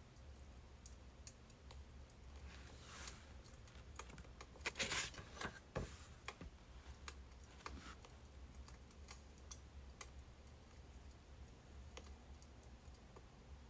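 Birch firewood burning, heard faintly: scattered small crackles and snaps, with a louder flurry of pops about five seconds in, over a steady low hum.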